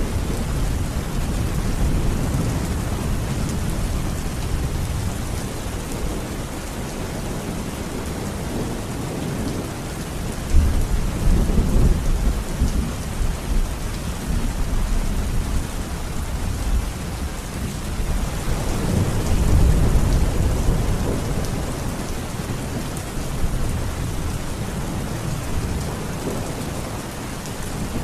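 Heavy rain falling steadily, with rumbles of thunder: a sudden loud roll about ten seconds in and another one swelling about two-thirds of the way through.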